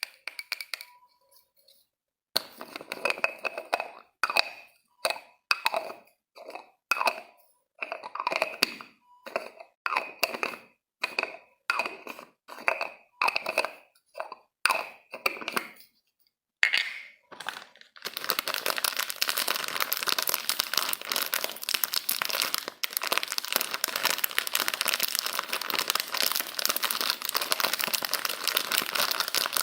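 Close-miked ASMR trigger sounds. First comes a run of about twenty short scratchy strokes, one after another. About two-thirds of the way through they give way to a continuous dense crinkling and crackling.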